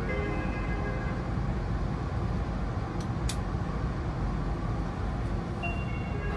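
Steady low rumble of cabin noise inside an ETS electric train coach, with two short clicks about three seconds in.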